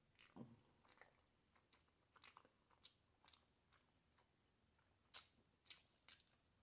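Faint chewing and wet mouth clicks of someone eating a mouthful of food, with a few sharper clicks about five seconds in.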